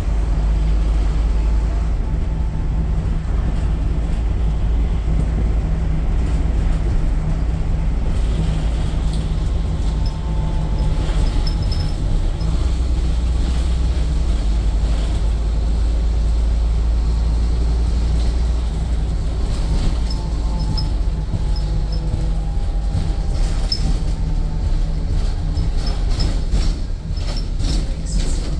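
Scania N230UD double-decker bus heard from inside the saloon: a steady low engine and drivetrain rumble, with a faint whine that slides down in pitch a few times. Body rattles and squeaks come in near the end.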